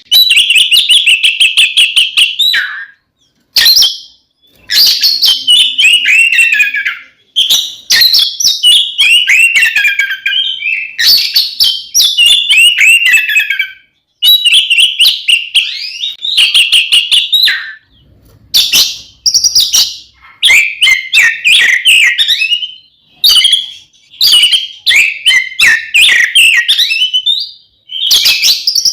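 Oriental magpie-robin (kacer) singing loudly in the fierce, non-stop style that keepers call 'ngeplong tarung' (fighting song), a call used to provoke other magpie-robins. It sings rapid whistled and scratchy phrases in bursts of a few seconds, with short pauses between them.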